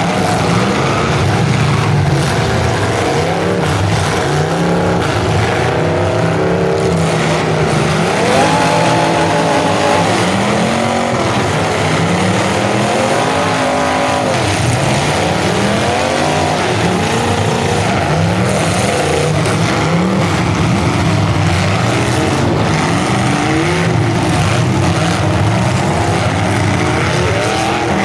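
Engines of several full-size demolition derby cars running and revving at once, their pitches rising and falling over one another.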